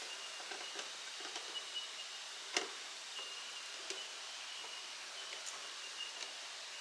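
Quiet outdoor background with a faint, steady high tone that comes and goes, and scattered small clicks and knocks, the sharpest about two and a half seconds in.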